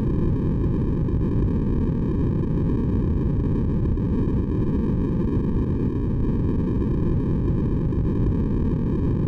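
Steady electronic sleep noise, a constant deep hiss weighted toward the low end with a slightly hollow colour, unchanging throughout.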